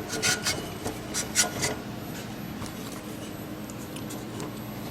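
A small engine's crankshaft being slid into and turned in its aluminium block, with short metal clicks and rubbing in the first second and a half, then only faint ticks.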